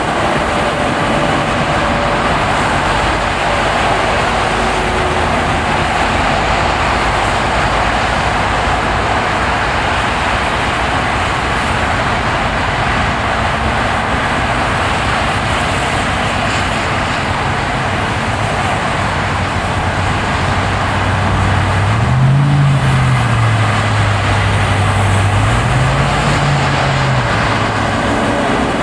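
A car driving on a winter road: steady road and tyre noise. A low engine hum rises and falls twice near the end.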